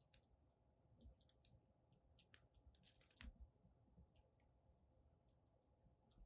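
Faint crackling of a wood fire burning in a fire pit: irregular small pops and snaps, the sharpest about three seconds in and again at the very end.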